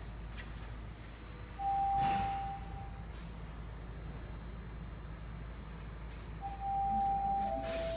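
Toronto subway train's door chime: a single clear chime tone about two seconds in, then near the end a descending chime that steps down in pitch, over a steady low hum of the train and station.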